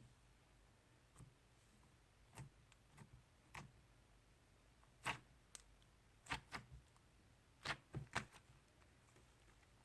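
Slime being squeezed and folded by hand, trapped air popping in soft, sharp clicks: about a dozen, some in quick pairs and triplets.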